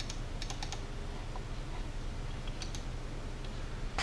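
Light clicking at a computer: a quick run of about four clicks near the start and a couple more about three seconds in, over a steady low hum.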